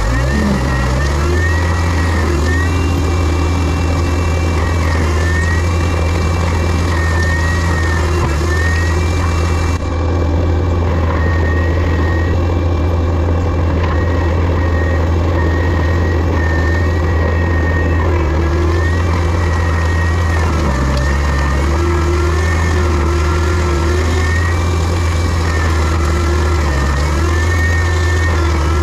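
Heavy land-clearing machine's diesel engine running steadily, with a high whine over it that steps up and down in pitch every second or two.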